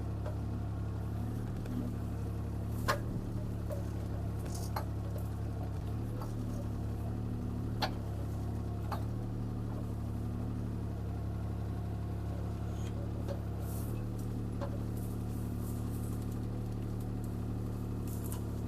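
CAT 303C CR mini excavator's diesel engine running steadily under hydraulic load while the bucket works a tree's roots loose, with a few sharp cracks or knocks about 3, 8 and 9 seconds in.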